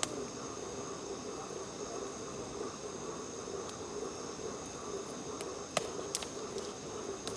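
Insects chirring steadily, with a couple of sharp crackles from the bonfire about six seconds in.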